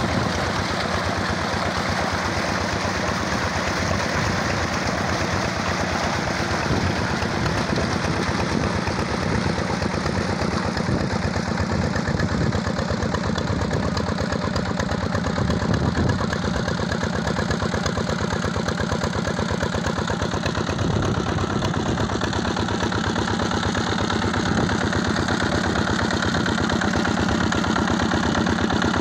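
Diesel engine running steadily at idle.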